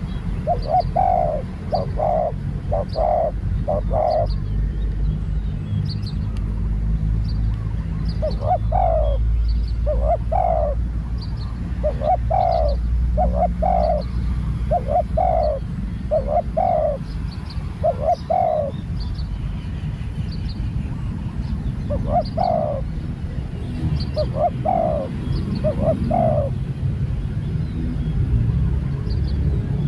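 Spotted doves cooing in repeated phrases of several short notes, with pauses between phrases, over a steady low rumble.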